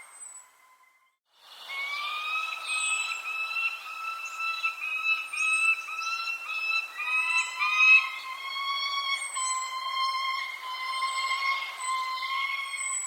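Birds calling: a run of short, repeated pitched notes with thin high chirps over the top, starting after a brief break about a second in.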